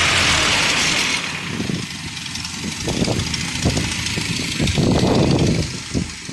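1986 Toyota pickup engine idling with its aftermarket intake, a loud steady hiss over a low engine note that falls away about a second in, leaving a quieter idle with scattered irregular thumps.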